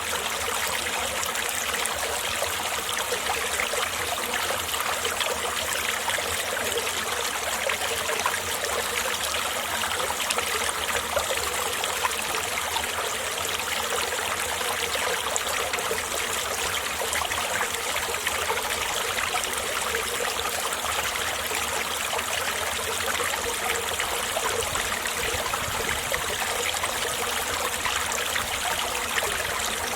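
Mountain stream water flowing and trickling over rocks: a steady, even rush of water with no change in strength.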